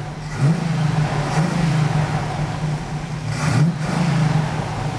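Pontiac 400 cubic inch V8 with a Holley carburettor, revving. The pitch jumps sharply up twice, about half a second in and again about three and a half seconds in, and holds steadier between the blips.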